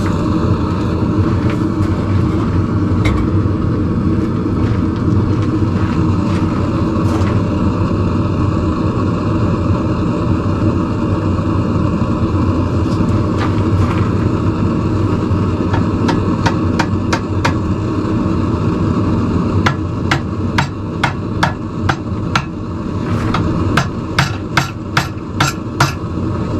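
Hammer blows on hot steel tong jaws held in a vise, shaping them around a railroad spike. A few scattered strikes at first, then a quick run of strikes through the last ten seconds, some ringing, over a steady drone.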